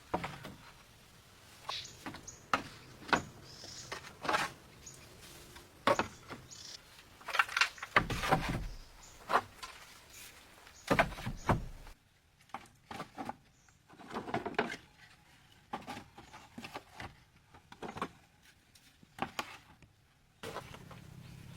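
A run of irregular knocks and clatters of objects being handled, with a couple of heavier thumps about a third and half of the way through.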